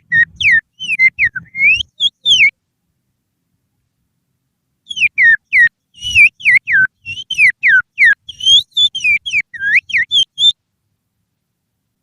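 Finger whistle blown through the little fingers, imitating an oriental magpie-robin's (kacer) song as a lure call to set the birds singing. Quick, swooping whistled notes, mostly falling in pitch, come in two bursts with a pause of a few seconds between, and breath puffs sound under each note.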